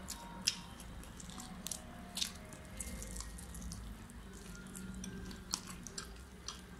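Close-up eating sounds: scattered wet mouth clicks and smacks as two people bite and chew chicken wings and a chicken shawarma wrap, over a faint steady low hum.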